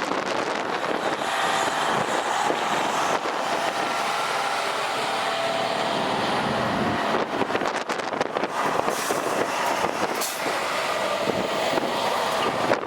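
Blizzard wind rushing over the microphone with a heavy vehicle running through it, a faint steady whine in the first half, and rough gusts buffeting the microphone in the second half.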